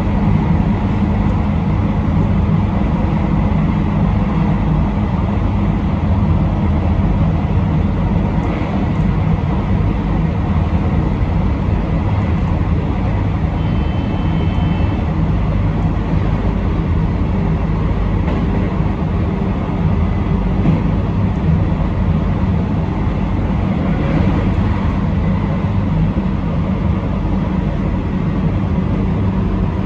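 Train running along the line, heard from the front of the train: a steady rumble of wheels and running gear with a low hum. A brief high two-note tone sounds about a third of the way in.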